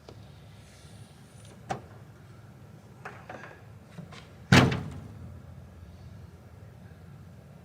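A few clicks and knocks, then a door slams shut about four and a half seconds in, with a short ringing decay.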